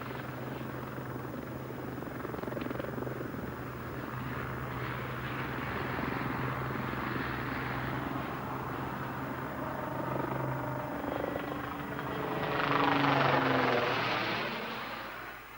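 Westland Lynx helicopter running, a steady low drone under a wash of rotor and engine noise. It swells to its loudest near the end, then drops away sharply.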